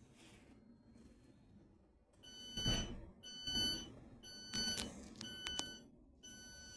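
A Thameslink Class 700 train's electronic door alert beeping: steady tones repeated four times, starting about two seconds in, with a few sharp clicks in the middle.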